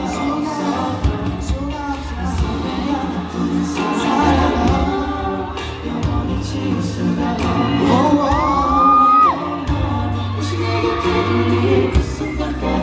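Live concert recording of a Korean pop song: band music with singing and some crowd noise. About eight seconds in, a loud high voice rises and holds a note for about a second.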